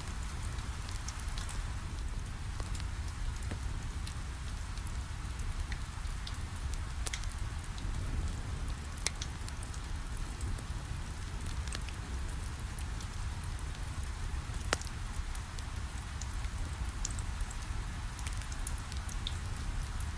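Steady rain against a window mixed with a crackling fireplace fire: an even hiss and a low rumble, with scattered sharp pops and clicks.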